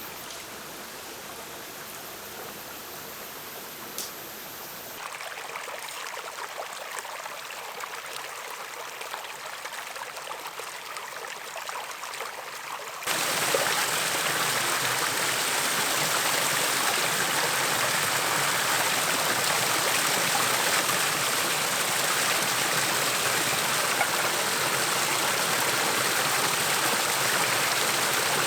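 Hot oil sizzling as food deep-fries, a dense steady hiss that jumps much louder about 13 seconds in; before that a quieter, similar hiss.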